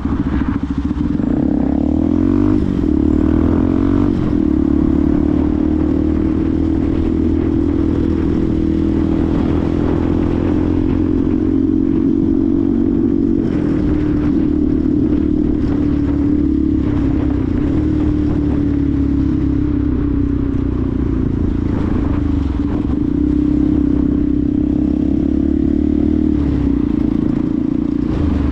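Benelli TNT 125's single-cylinder four-stroke engine running steadily while being ridden, its pitch wavering up and down for a couple of seconds near the start, then holding even.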